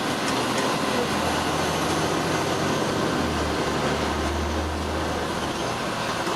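Fire engine running, heard from inside the cab: steady engine and road noise with a low drone that grows stronger for a couple of seconds in the middle.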